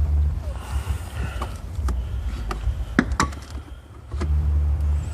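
Handling noise inside a car while plastic interior trim is worked with a pry pick: rubbing and deep rumbling, with a few sharp plastic clicks and knocks about two and three seconds in.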